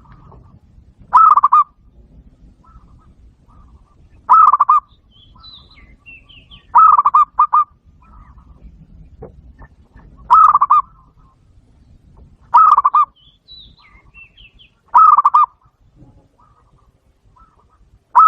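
Zebra dove calling: short runs of rapid staccato coos, loud and repeated about every three seconds, with a few faint higher chirps in between.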